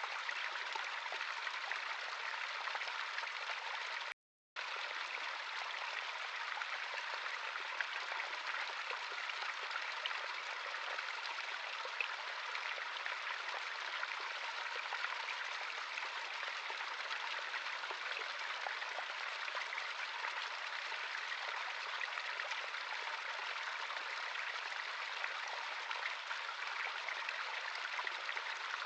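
A small natural stream running over rocks: a steady, even rush of water with small splashes and trickles in it. It cuts out completely for about half a second about four seconds in, then carries on unchanged.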